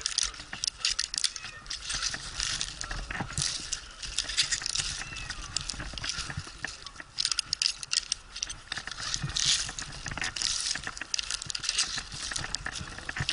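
Dense, irregular rustling and clicking close to the microphone: handling noise.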